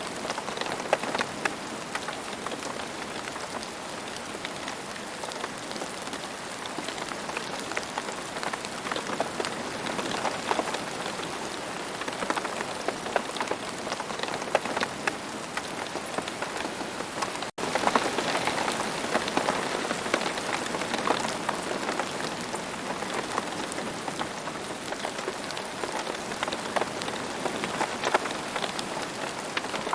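Steady rain falling, a dense even hiss scattered with the ticks of individual drops striking. A split-second gap interrupts it a little past the middle.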